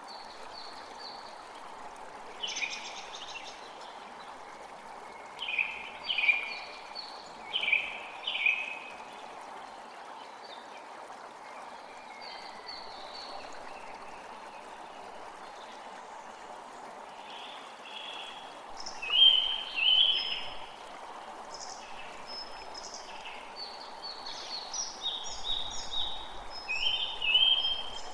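Steady flowing stream with songbirds calling over it in short bursts of chirps and phrases, loudest about two-thirds of the way through and busy again near the end.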